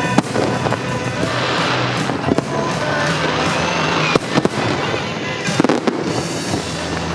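Fireworks bursting: a dense crackling with several sharp bangs a second or two apart, over the music soundtrack of a pyromusical show.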